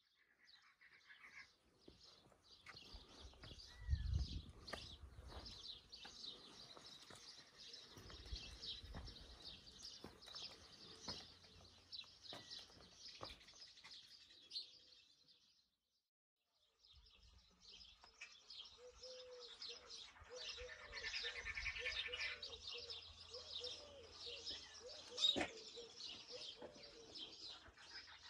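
Many small birds chirping and twittering outdoors, with a lower repeated call joining in during the second half. A few low thumps about four and eight seconds in, the sound breaks off for about a second midway, and a sharp click comes near the end.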